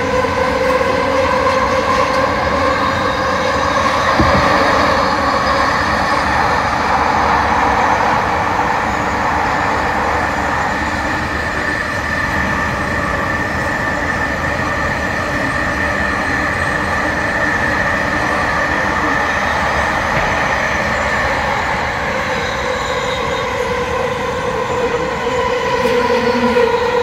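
Vancouver SkyTrain car running along its track, heard from inside: a steady whine in several tones from the linear induction motors, over the rumble of wheels on rail. The tones drift slightly as the speed changes.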